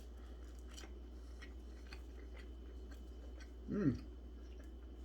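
A person chewing a mouthful of a microwaved chicken sandwich, with small wet clicks of the mouth. About four seconds in comes a short vocal sound that falls in pitch.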